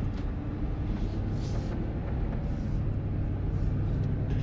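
Van driving along the road, heard from inside the cab: a steady low rumble of engine and road noise.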